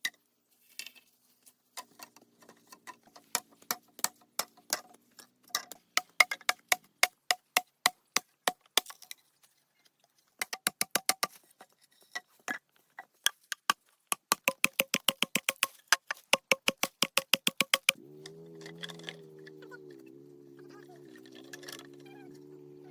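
A long run of sharp strikes, like a tool hitting wood, some leaving a short ringing note; they come quicker, about three to four a second, in the second half. A little before the end the strikes stop and a steady, slightly wavering hum with a low drone takes over.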